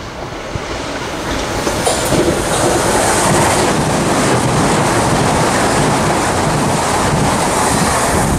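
Southeastern Class 395 Javelin electric multiple unit passing close by. The noise of its wheels on the rails builds over the first two or three seconds, then holds loud and steady as the carriages go past.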